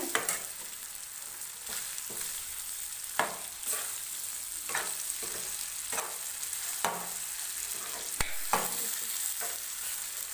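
Broiler chicken frying in a wok with a steady sizzle, while a metal ladle stirs and scrapes through it about once a second. One sharp clink of the ladle on the pan comes a little after eight seconds in.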